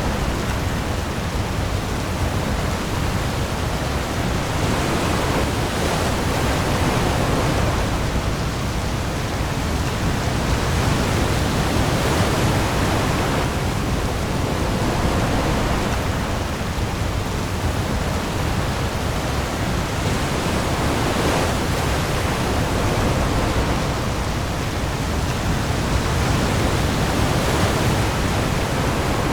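Heavy rain pouring onto the sea with waves, a dense steady hiss that swells slowly every few seconds over a deep low rumble.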